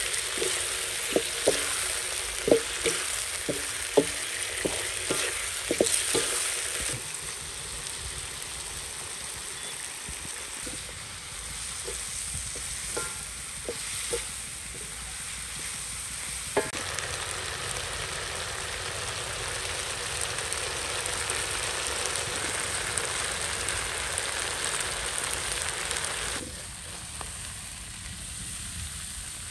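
Food frying and sizzling in a pan, with a utensil stirring and knocking against the pan about ten times in the first six seconds, then a steady sizzle.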